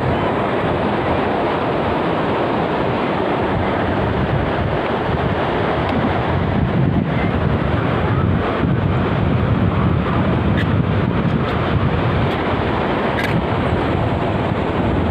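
Ocean surf breaking with wind buffeting the microphone: a steady, loud rush of noise.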